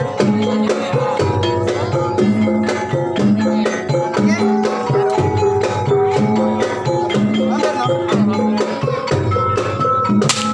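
Banyumasan gamelan music: a steady, dense rhythm of drum strokes over ringing pitched melodic percussion.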